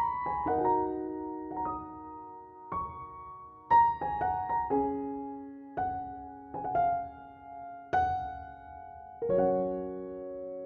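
Background piano music: slow, gentle notes and chords struck about once a second and left to ring.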